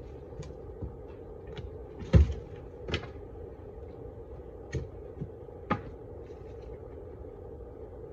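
Several sharp knocks and clunks, the loudest about two seconds in, over a steady hum.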